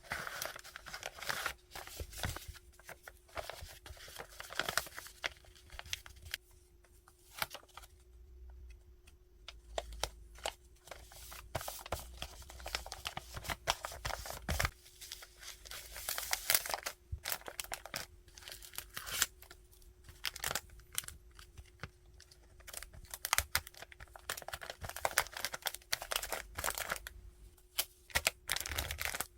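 Hands packing an order, tearing and crinkling plastic and paper packaging in irregular rustling spurts with sharp crackles and clicks, pausing briefly now and then. A faint steady hum sits underneath.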